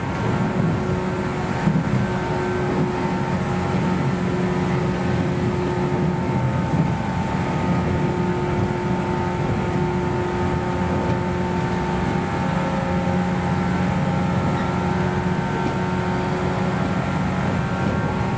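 Running noise inside the motor car of a JNR Series 117 electric train: a steady rumble of wheels on rail with a steady hum from the running gear.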